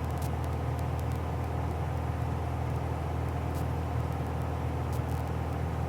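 Steady drone of a 1966 Cessna 172G's six-cylinder Continental O-300 engine and propeller at cruise power, heard inside the cabin, a low even hum with no change in pitch, while the mixture is being leaned.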